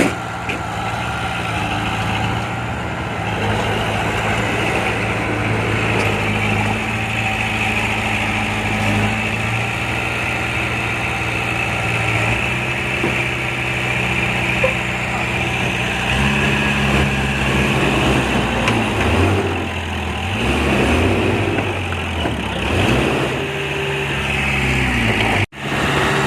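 Heavy diesel engine running steadily, its pitch shifting up and down repeatedly in the second half as the throttle or load changes. The sound cuts out briefly near the end.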